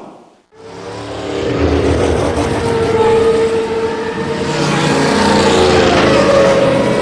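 Train running at speed: a rushing noise that builds over the first couple of seconds, with a steady whine on top.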